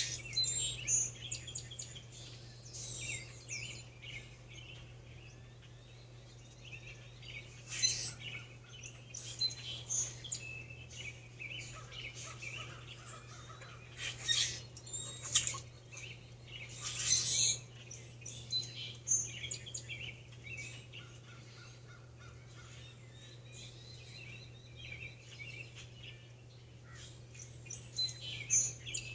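Several songbirds chirping and singing in short, scattered phrases, with louder bursts now and then, over a faint steady low hum.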